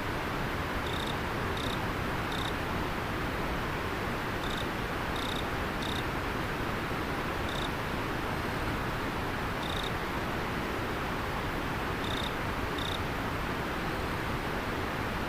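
Steady rushing of river water, with a single insect giving about ten short, high chirps at irregular intervals, often in pairs.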